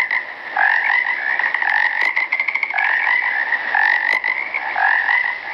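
Frog croaking, call after call at roughly one a second, with a quick rattling trill about two seconds in.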